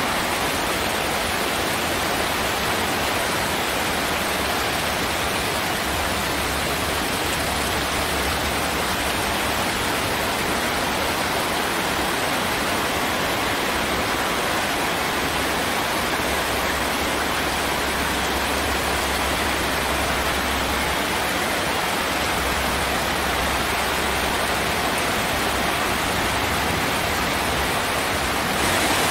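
Heavy rain pouring down in a steady, unbroken rush of noise.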